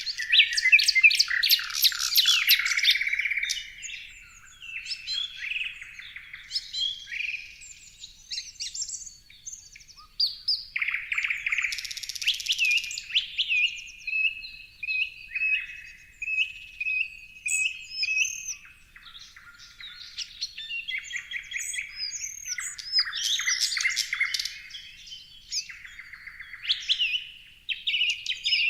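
Several birds singing and chirping at once: rapid chirps, trills and short whistled notes that come and go in overlapping phrases.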